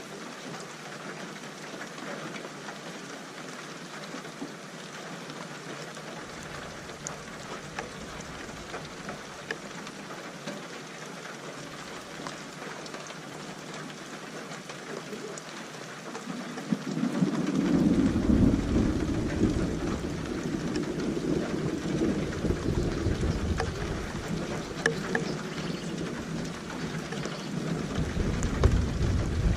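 Steady rain falling, with a low rumble of thunder rolling in about halfway through and rumbling on to the end.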